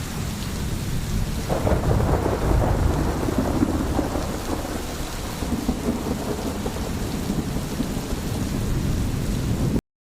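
Steady rain with a long roll of thunder that swells about a second and a half in and slowly fades. The sound cuts off abruptly just before the end.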